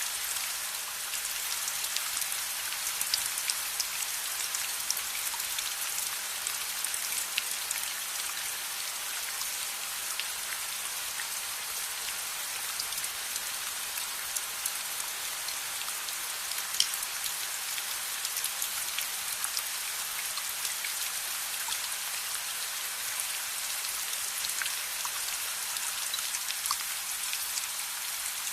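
Steady rain falling on a surface, an even hiss scattered with many small sharp ticks, with the gentle crackle of a fire mixed in.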